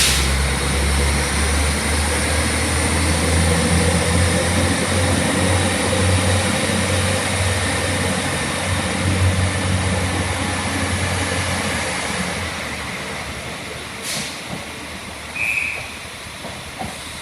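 Northern Ireland Railways diesel multiple unit heard from on board: a steady low engine drone with running noise and a high whine, which die away after about twelve seconds as the train comes to a stand. A sharp click and a short beep follow near the end.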